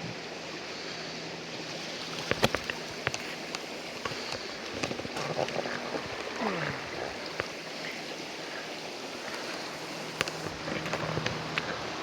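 Creek water running steadily over rocks, with a few sharp knocks or splashes in the first half.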